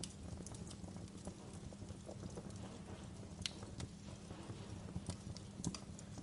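Fire crackling: irregular sharp snaps and pops over a steady low rumble of burning flames, with a couple of louder snaps in the second half.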